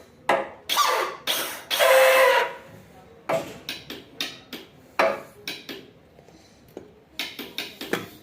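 A motorcycle's electric starter motor, out of the bike and powered directly, spinning up in a series of short bursts of a second or less with a rough whirring noise. This is the strange noise heard when starting the bike, which the mechanic traces to the starter motor itself: either an assembly error or a fault in the motor.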